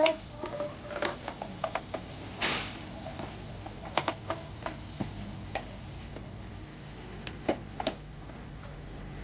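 Toy repair tools being handled on a toy car: scattered light clicks, taps and knocks at an uneven pace, with one short scraping rush about two and a half seconds in.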